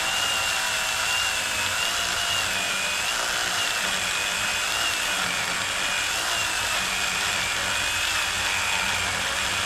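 Power saw running at a steady, high speed, cutting up a fallen rotten tree. Its whine wavers slightly as it works. It starts and stops abruptly.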